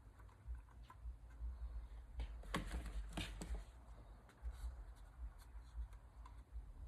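Faint handling noises of gasket sealer being spread onto a transmission top-cover gasket: soft rubbing with a few light clicks, clearest in the middle, over a low steady hum.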